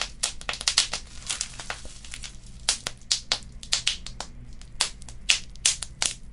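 Wood fire crackling, with many sharp pops coming thick and irregular, several close together in quick runs, over a steady low hum.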